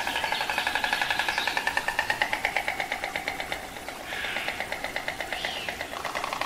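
White storks bill-clattering: a fast, steady rattle that dips briefly a little past the middle before picking up again.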